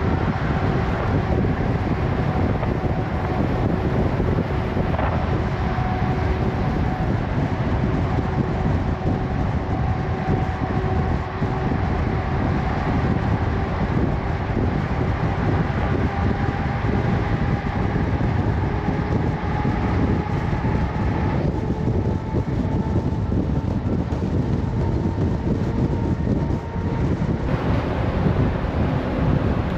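Semi truck running at road speed: a steady engine drone with a faint tone that drifts slowly in pitch, under a continuous rumble of road and wind noise.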